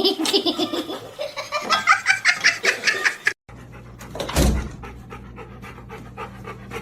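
Dog panting rapidly in short, quick breaths, at first with a squeaky tone to each breath. There is a brief break about three and a half seconds in, then a thump and lighter, steady panting.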